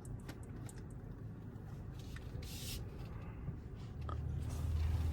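Low rumble inside a moving car's cabin, with a few small clicks and a brief hiss near the middle; the low hum grows louder about four seconds in.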